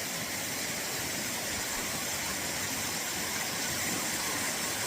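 Steady rush of a waterfall and creek water, an even hiss that stays level throughout.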